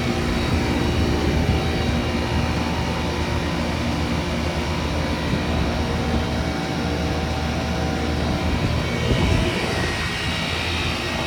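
Heat pump outdoor units running in heating mode: a steady hum of compressor and fans with several steady tones. The coils are icing up and the units have not yet gone into defrost.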